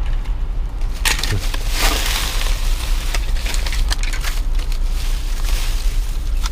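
Crinkling and crackling of trash bags and discarded packaging being rummaged through in a dumpster, over a steady low rumble.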